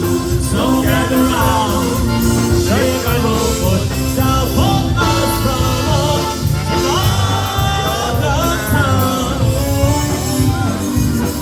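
Live polka band playing, with a melody line sliding and bending over a steady bass and drum beat.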